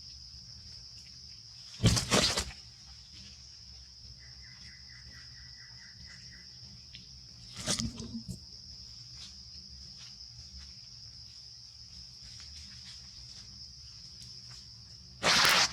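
Insects droning at one steady high pitch, broken by three short loud noises: about two seconds in, near the middle, and a louder pair near the end.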